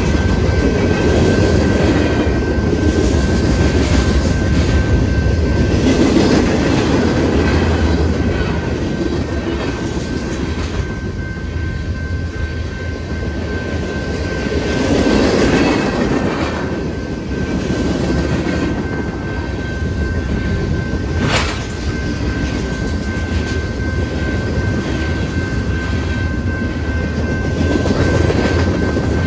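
Freight train cars rolling through a grade crossing, rumbling with wheels clattering over the rails, while the crossing bell rings steadily. A single sharp clank about 21 seconds in.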